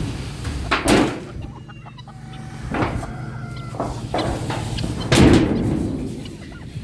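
Chickens clucking and calling, with thin high calls in the middle and two louder sharp sounds, about a second in and about five seconds in.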